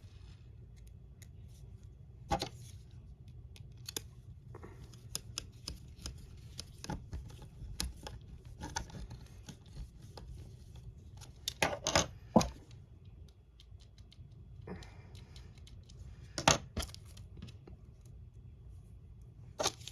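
Sparse sharp clicks and taps, a few of them in quick pairs, from small screws and plastic scale-model parts being handled and screwed in with a small screwdriver, over a faint steady hum.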